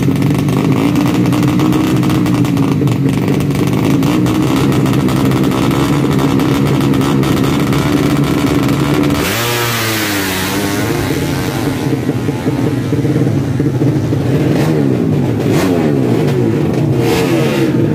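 Tuned four-stroke underbone drag motorcycles: an engine held steady at high revs. About nine seconds in comes a sudden rush of noise with the pitch sweeping down, as a bike launches or passes. Near the end, engines rise in pitch as they accelerate.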